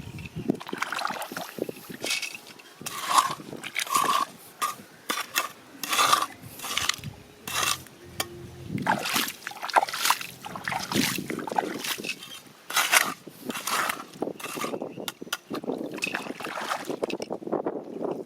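Water splashing and sloshing in irregular bursts, several a second, as if being stirred or scooped by hand in a shallow river.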